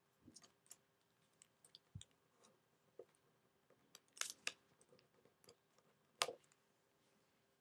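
Faint crinkling and crisp crackles of origami paper being folded and creased by hand, in scattered short bursts with the loudest a little past four seconds and just past six seconds.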